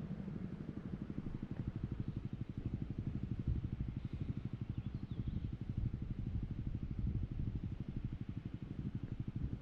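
Motorcycle engine running steadily, its firing pulses an even, rapid beat.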